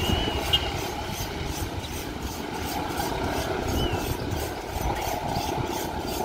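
Train running on the line: a steady rumble and rail noise, with a faint even ticking high up and a few short high chirps.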